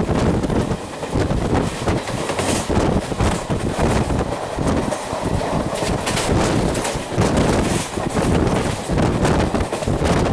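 Indian express train running at speed, heard from aboard a coach: wheel-and-rail noise with wind rushing past the microphone.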